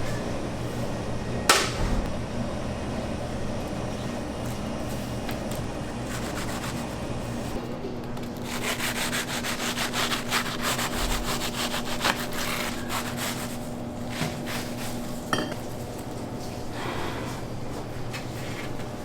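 Rapid rhythmic scraping or rubbing for several seconds in the middle, with a sharp knock near the start and another near the end, over a steady low hum.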